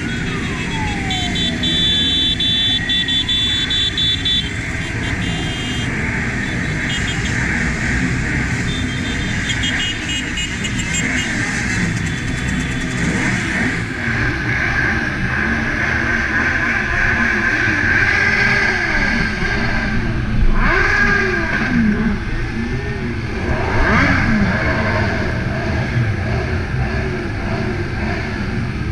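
Many motorcycle engines running together in a convoy, rising and falling in pitch as riders open and close the throttle, with traffic noise around them. Louder swells come about two-thirds of the way through.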